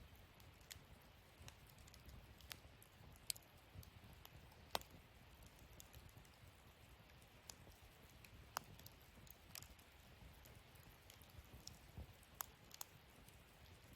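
Wood fire burning in a fire-pit stand, crackling with scattered sharp pops, a few of them louder, over a faint low hiss.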